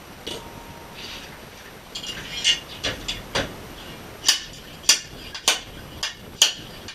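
Repeated sharp metallic strikes, hammering to drive a bearing out of a YZ125 two-stroke engine's crankcase half. A few lighter blows come first, then harder, regular blows about two a second.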